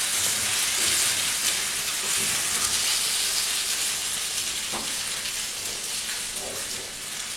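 Food sizzling in oil in a frying pan: a steady high hiss that slowly grows quieter.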